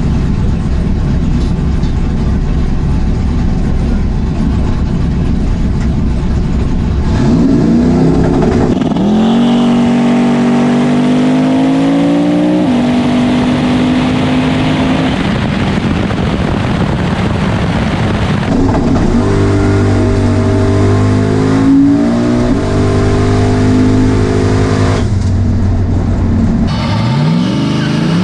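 A boosted 1978 Camaro drag car's engine rumbling low and rough at idle. About seven seconds in it is revved up and held at a steady high speed for several seconds, then held up again later in steady spells. Near the end it revs up once more.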